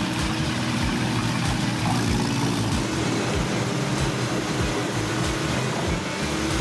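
Heizohack HM 8-400 wood chipper running, a steady heavy engine drone with noise from the machine working.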